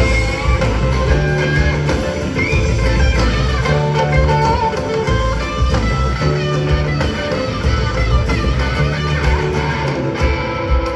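Live band music in an instrumental passage: guitars over a repeating bass line, with a melodic guitar line that bends a few notes.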